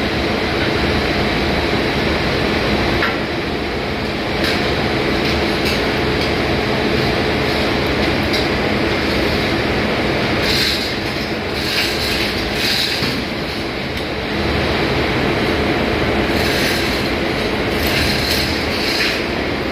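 Ship's engine-room machinery running with a loud, steady drone. About halfway through, and again near the end, there are clusters of short, sharper high-pitched noises, like metal scraping or clattering.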